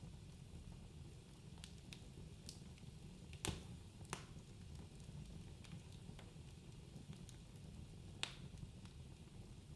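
Wood fire burning in a fireplace: a low steady rumble of the flames with scattered crackles and a few sharper pops, the loudest about three and a half seconds in and again near the end.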